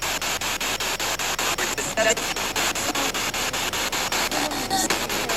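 SB7 spirit box sweeping through radio stations: steady static chopped into rapid pulses, about seven or eight a second. Brief snatches of radio voice break through about two seconds in and near the end.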